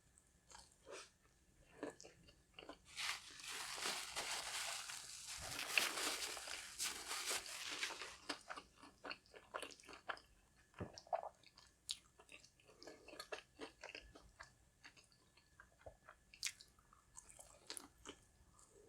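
Close-miked eating: a person biting and chewing crispy fried food, with loud, dense crunching from about three to eight seconds in, then softer scattered chewing clicks and mouth smacks.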